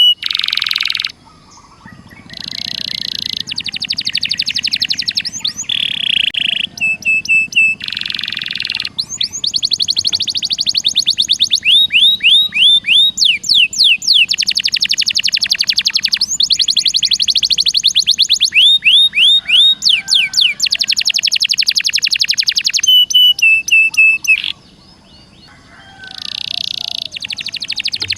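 Recorded songbird song: dense, very fast trills and rapid runs of high repeated notes and quick upward sweeps, with two short breaks, one about a second in and one near the end.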